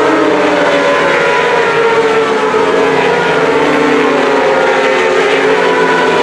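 Several racing superbike engines running at high revs at once, their pitches rising and falling as the bikes accelerate and change gear.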